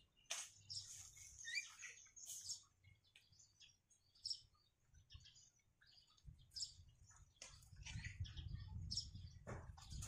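Faint, short, high-pitched bird chirps, scattered irregularly with gaps between them.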